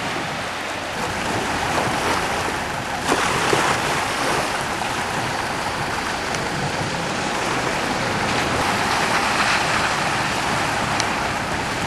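Rough sea surf churned up by strong wind, a steady wash of breaking waves with wind on the microphone. A brief sharp knock about three seconds in.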